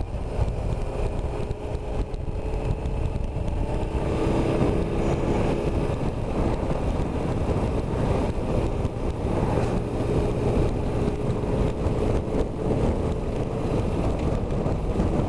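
BMW R1150RT motorcycle's flat-twin boxer engine running steadily on the move, mixed with a constant rush of wind and road noise.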